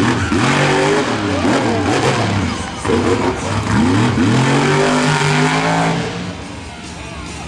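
Monster truck engine revving hard, its pitch climbing and falling again and again, then easing off about six seconds in.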